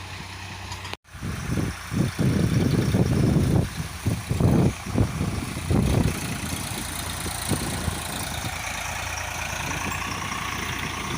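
Tractor engine running, with a brief break about a second in and uneven low rumbling for several seconds before it settles to a steadier hum.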